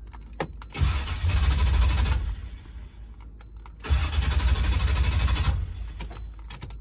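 Small-block V8 in a Chevrolet Malibu wagon being cranked by its starter twice, each try lasting about a second and a half. The key clicks in the ignition first, and the engine does not stay running after either try.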